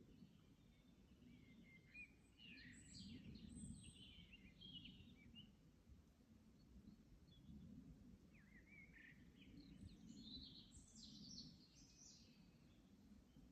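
Faint songbird singing in two bursts of quick, varied chirping phrases, over a low steady background rumble.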